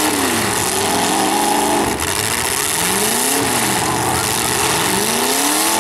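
Demolition derby trucks' engines revving hard and dropping back again and again, their pitch rising and falling several times, as the hooked-up trucks push against each other.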